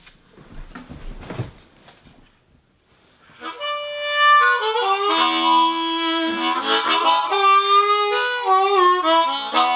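A few faint noises, then from about three seconds in a harmonica plays a melody with chords, moving in steps from note to note.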